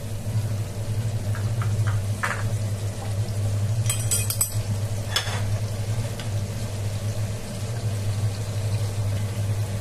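Spice paste of onion, garlic, ginger and ground spices cooking down in oil and a little water in a nonstick pot, bubbling and sizzling. A few short clicks come about two seconds in and again around four to five seconds in, over a steady low hum.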